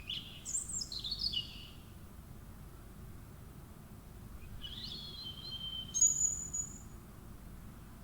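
A bird singing: two short phrases of quick high chirps and whistles, the first at the start and the second about five seconds in, ending on a held high note.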